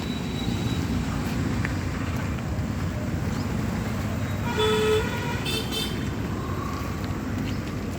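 Steady street traffic noise. A little past halfway a vehicle horn gives a short toot, with a fainter one just after.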